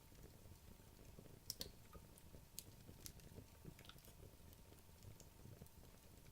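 Wood logs burning in a fireplace: faint, scattered crackles and pops over a low flame rumble, the loudest pair of pops about one and a half seconds in.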